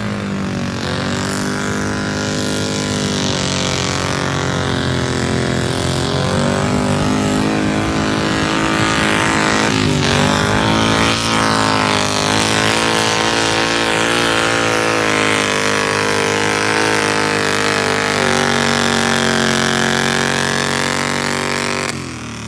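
Garden tractor engine running hard under load through a pull, its pitch sagging and recovering several times, then dropping away near the end.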